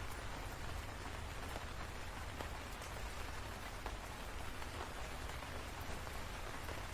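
Steady rainfall: an even wash of rain with scattered sharper drop ticks.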